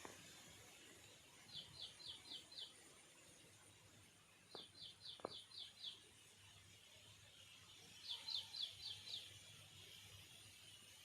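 A bird calling in three short runs of five or six quick, high, descending chirps, a few seconds apart, over a faint steady background, with two faint clicks in the middle.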